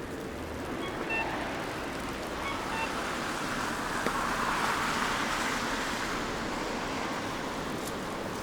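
Street ambience on a slushy, snowy downtown road: a car passes, its wet tyre swish swelling through the middle and easing off, over a steady hiss of city noise.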